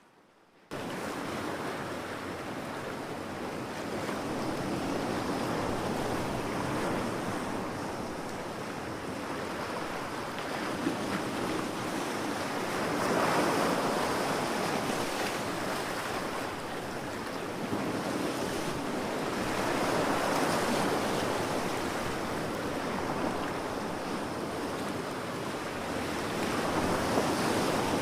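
Ocean surf breaking on a beach, a continuous wash of water that swells with each wave roughly every six or seven seconds. It cuts in abruptly just under a second in.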